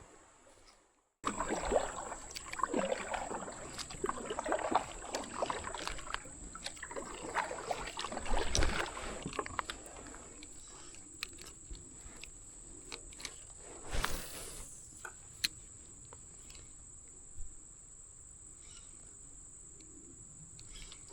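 Water sloshing and small knocks around a kayak on the creek, busy for several seconds after a brief silence, then quieter with a few clicks. A thin steady high tone sounds throughout.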